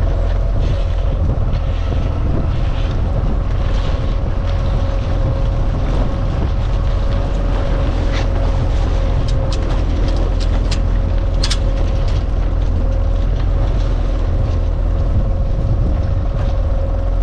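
A small sailboat's motor running steadily with a low hum and a thin steady whine, mixed with wind on the microphone and water noise.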